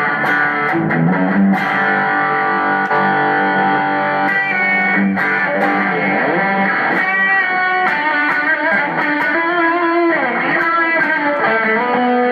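Distorted electric guitar played through a Zoom G3XN multi-effects pedal on a drive preset, with delay switched in by the expression pedal. It holds sustained notes, with a rising slide about halfway and string bends near the end.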